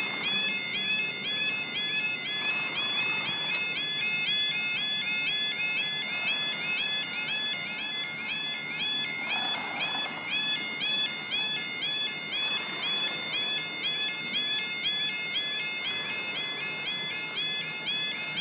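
UK level crossing alarm sounding: an electronic warbling two-tone alarm, a pitched sliding tone repeating rapidly and steadily.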